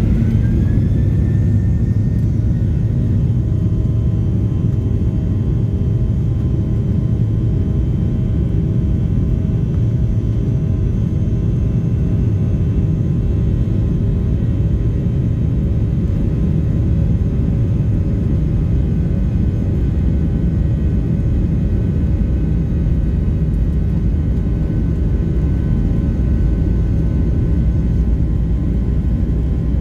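Boeing 737-900ER jet engines and airflow heard from inside the cabin: a steady, loud rumble with a thin engine whine that rises in pitch and levels off about two seconds in.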